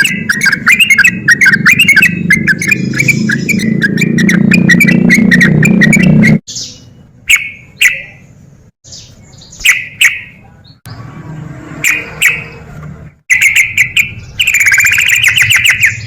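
Yellow-vented bulbul (trucukan) calling: loud, rapid chattering for the first six seconds, which cuts off suddenly. Then come a few separate short calls, and a loud bubbling run of notes near the end.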